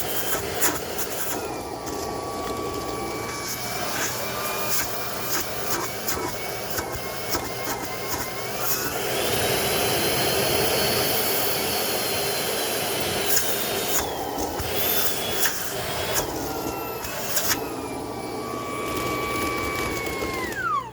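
Shark Power Detect IP1251 cordless stick vacuum's motor running with a high whine that rises in pitch and falls back, with scattered clicks. It runs again after a thermal shutdown caused by an overfull dirt bin. Near the end it is switched off and the whine drops away as the motor spins down.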